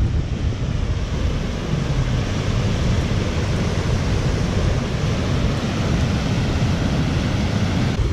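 Wind buffeting a GoPro's microphone in a snowstorm: a steady, loud rumbling roar, heaviest in the low end.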